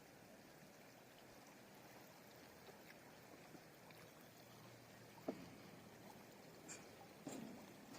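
Near silence: the faint, steady rush of a river, with a few soft clicks in the second half.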